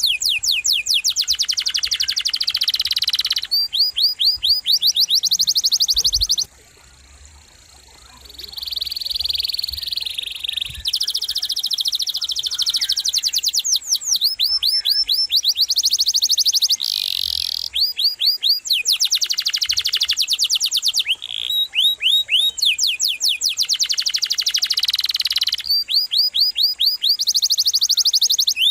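Domestic canary singing long, rolling trills of fast-repeated notes, switching to a new phrase every second or two, with a short lull about six seconds in.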